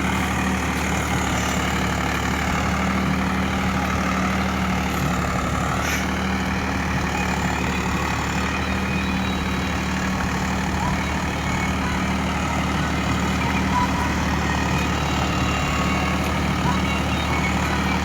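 Swaraj 744 FE tractor's diesel engine running at a steady speed.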